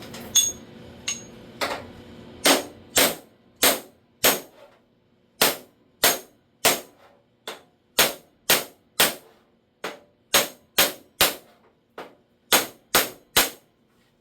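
A hammer tapping a steel lower door skin panel into place: about twenty sharp metallic taps, roughly two a second at an uneven pace.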